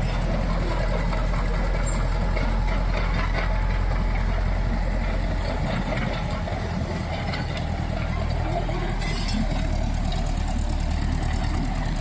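Caterpillar D4D crawler tractor's diesel engine running steadily with a fast, even low pulse.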